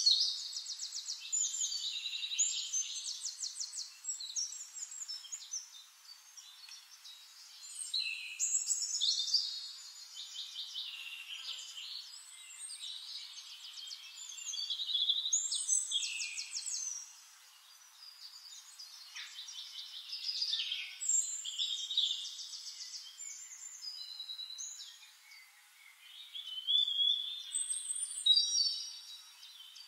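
Birds singing: high, rapid trilled phrases and chirps, a loud phrase coming every five or six seconds with quieter calls between.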